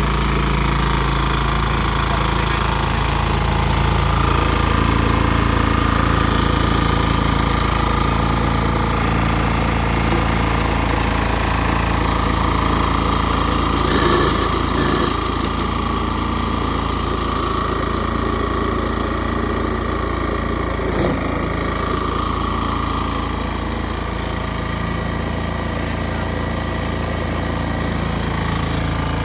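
Engine of an LM800 remote-control lawn mower running steadily, with a short burst of noise about halfway through and a sharp click a few seconds later.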